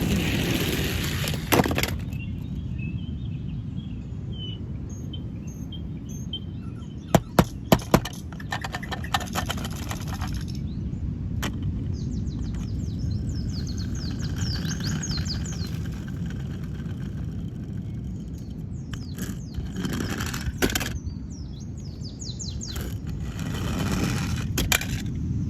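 Outdoor background: a steady low rumble with birds chirping, and a few sharp clicks about seven to eight seconds in.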